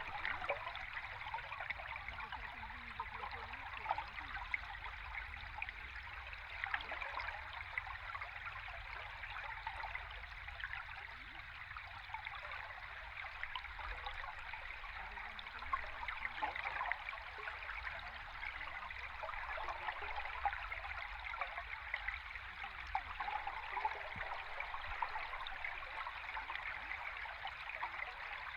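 Stream water heard underwater: a steady rushing fizz dense with tiny crackles and bubbling, over a low rumble.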